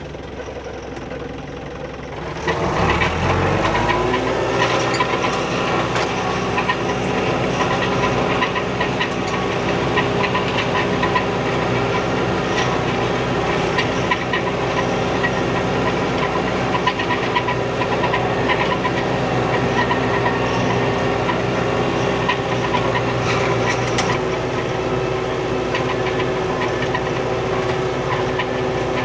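Old farm tractor's engine running. About two and a half seconds in it revs up and gets louder, then holds steady at the higher speed under scattered clicks and rattles.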